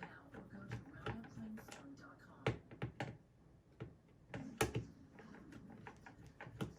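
A few sharp knocks and clicks of a plastic box fan's housing and parts being handled while it is taken apart, the loudest about two and a half seconds in and again past four and a half seconds.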